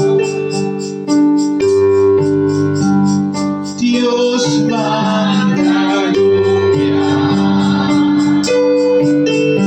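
Church worship music on keyboard: held electric-piano chords changing about once a second over a steady drum beat, with a wavering melodic run in the middle.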